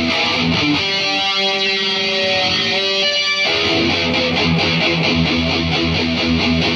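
Electric guitar played through an Atomic AmpliFire amp-modeler pedal into cheap computer speakers. A held chord rings for a couple of seconds, then cuts off into quick picked notes in an even rhythm.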